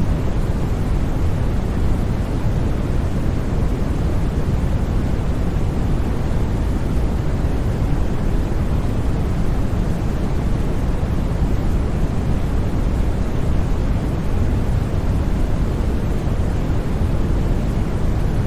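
Steady, unchanging white noise for sleep, its energy weighted toward the low end so it comes across as a deep, even rush.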